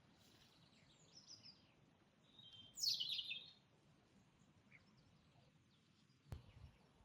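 Birdsong: faint high chirps, then one brief loud burst of song about two and a half seconds in. A short click with a low thump comes near the end.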